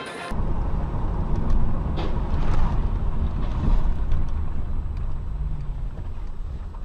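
Steady low rumble of a car on the road, engine and tyre noise, with a few faint ticks. A stretch of music cuts off just after the start.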